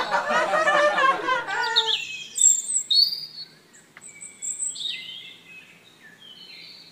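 Birds chirping: short high calls and quick downward-sweeping whistles, starting about two seconds in after a voice stops.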